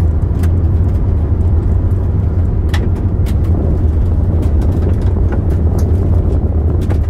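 Steady low rumble of a car driving on a gravel road, heard from inside the cabin, with scattered sharp ticks; the loudest tick comes about three seconds in.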